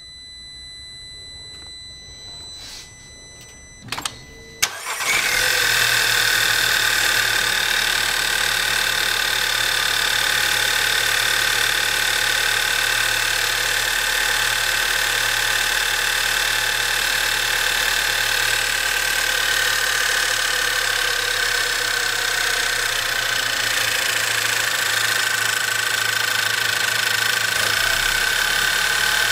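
Volkswagen Passat's 1.8 TSI turbocharged four-cylinder petrol engine starting about five seconds in and then idling steadily. A few faint clicks come before it starts.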